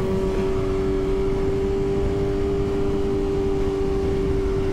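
2023 BMW S1000RR inline-four engine running at a steady highway cruise, holding one even pitch, under a heavy rush of wind and road noise.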